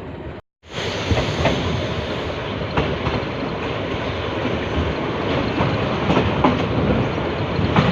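Passenger train running along the line, its wheels clacking over the rail joints and the carriage rattling, with scattered sharp knocks over steady running noise.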